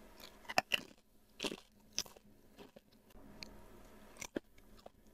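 Mouth-close crunching and chewing of a crispy fried skin snack, with a few sharp crunches of the bites and quieter chewing in between.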